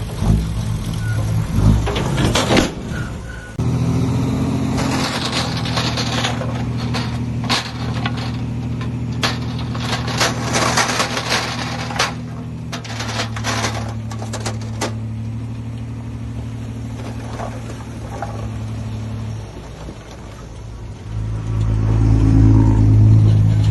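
Heavy diesel earthmoving machine engine running under changing load. Its pitch steps up and down, drops away about 20 seconds in, then revs up loudly near the end. Through the first half there is an irregular clatter of sharp knocks.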